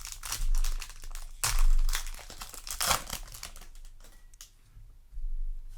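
Foil wrapper of a Yu-Gi-Oh! booster pack crinkling and tearing as it is opened, in a few short bursts, the loudest about a second and a half in, then quieter handling.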